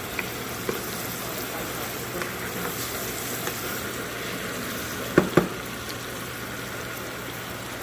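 Seasonings sizzling as they sauté in hot oil in a cooking pot, a steady sizzle, with two sharp knocks about five seconds in.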